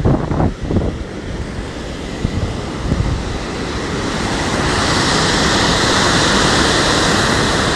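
Heavy storm surf on the sea, with strong wind rumbling on the microphone; about halfway in a loud rushing wash builds and holds.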